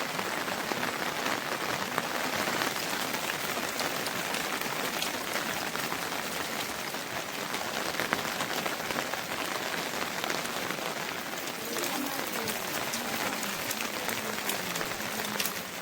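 Steady rain falling and pattering on surfaces, an even hiss of drops.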